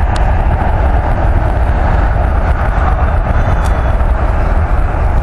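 Jet airliner's engines making a loud, steady roar with a heavy low rumble.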